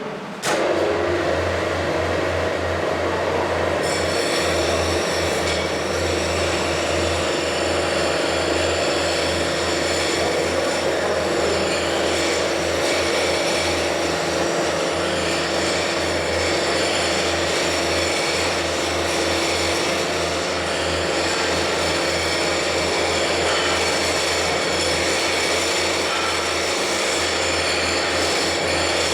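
Welding equipment running: a loud, steady hiss over a low hum that starts abruptly about half a second in, with a high whine added about four seconds in.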